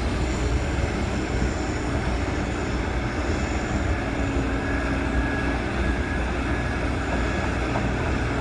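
Heavy earth-moving machinery running: a tracked digger and dump trucks give a steady, low diesel engine rumble.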